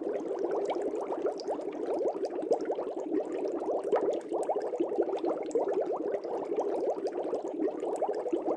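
Air bubbles streaming up through the water of a fish tank, a dense, steady bubbling and gurgling made of many small bubbles a second.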